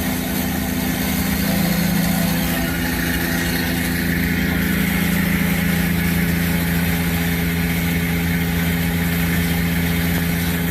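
Tire service truck's air compressor running with a constant low drone, and a hiss that swells for a few seconds in the middle.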